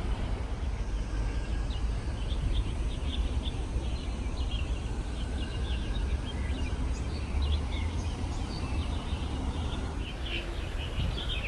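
Many small birds chirping in quick, short calls over a steady low rumble.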